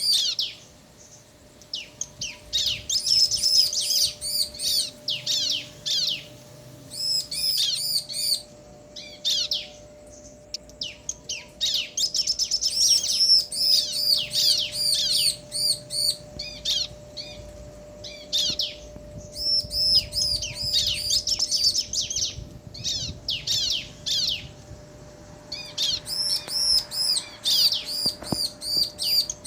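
Bar-winged prinias (ciblek), male and female, answering each other with bouts of rapid, high chirping broken by short pauses.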